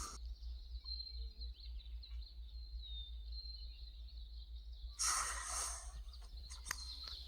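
Outdoor ambience: a faint, steady high-pitched whine or song that wavers slightly, over a low steady hum. A brief burst of rustling noise comes about five seconds in.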